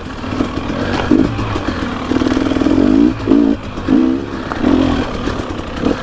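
Dirt bike engine revving in a series of short throttle bursts over a steady running rumble. The longest burst comes about two seconds in, with shorter blips following.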